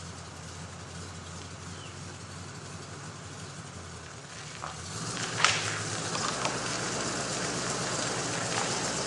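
The Jeep J20's AMC 360 V8 runs at a low, steady note. About five seconds in, the note changes and it grows louder, joined by a crackling, rustling noise and a single sharp crack.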